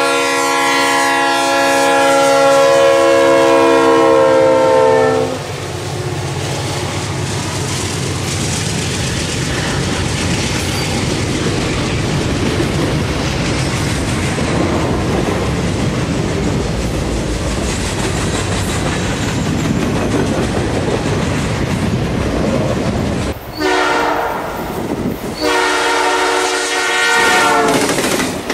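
Diesel freight locomotive's multi-chime air horn blowing one long blast of about five seconds, then the steady rumble and clatter of freight cars rolling past. Near the end a locomotive horn sounds close by in two blasts, the second longer, at a grade crossing, over the rumble of wheels.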